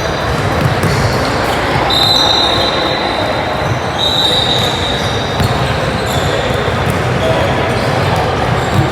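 Basketball game in a gym: a ball bouncing on the court amid the steady noise of voices echoing in the hall, with a few high squeaks.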